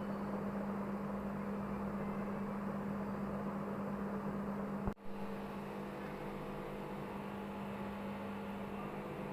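Aquarium pump humming steadily over a soft hiss. About five seconds in there is a single sharp click and the sound drops out for a moment.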